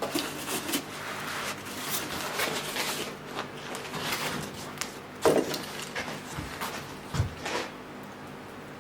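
Irregular knocks, clatter and rustling from things being handled and set down, with a louder knock about five seconds in and another around seven seconds.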